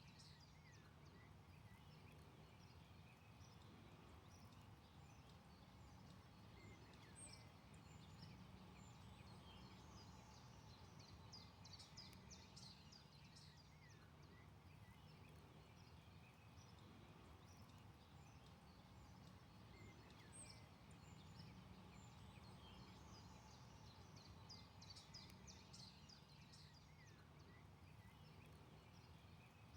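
Faint forest birdsong: a small songbird's quick trilled phrase, repeated every several seconds, with scattered chirps, over a low steady background hum.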